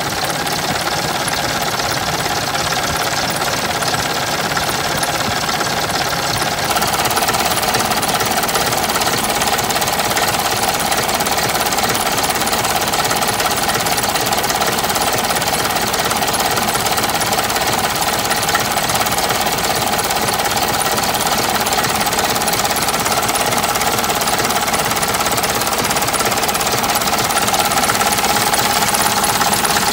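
Massey Ferguson 65 tractor's four-cylinder engine running steadily at a fast even beat, heard up close; it gets a little louder about seven seconds in. The owner judges it to be in good running order.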